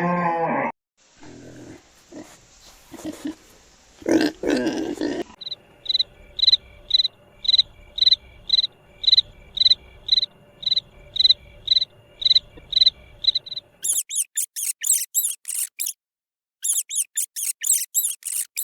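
A run of different animal calls: a low call ending at the start, a few seconds of low grunting, then a high chirp repeated about twice a second for some eight seconds. Quick, very high-pitched squeaking chirps follow from about fourteen seconds in.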